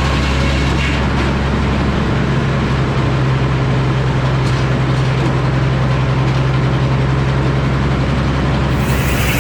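Engine powering an antique Frick sawmill, running steadily with an even low hum. Near the end a higher hiss comes in over it.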